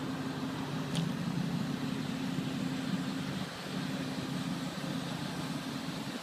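1994 Chevy 2500 pickup's engine idling, a steady low hum, with a short click about a second in.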